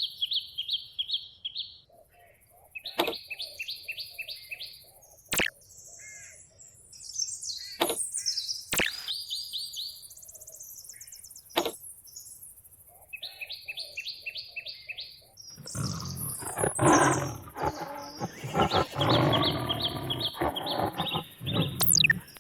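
Birds chirping in repeated rapid trills, with quick high whistling swoops between them. About two-thirds of the way in, a louder, rough sound with a low pitched growl comes in for several seconds and stops just before the end.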